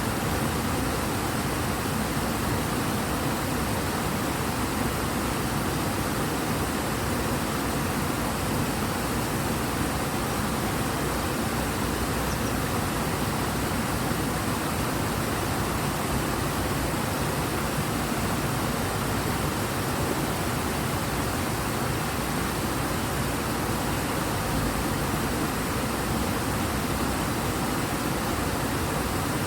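Fast, high-running water of a large river, the Ebro, rushing strongly: a steady, even wash of water noise with no breaks or changes.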